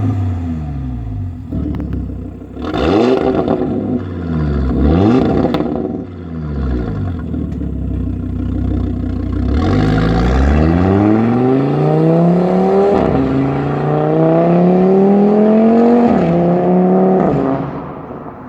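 Audi RS3 8P's turbocharged 2.5-litre five-cylinder through an aftermarket stainless-steel valved sport exhaust: two quick revs, then the engine pulls hard with steadily rising pitch. The pitch drops twice, like upshifts, before the engine backs off near the end.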